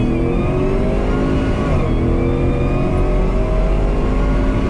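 Supercharged Cadillac Escalade V8 heard from inside the cabin, pulling hard under acceleration: the engine pitch climbs steadily, dips briefly about two seconds in as it shifts up a gear, then climbs again.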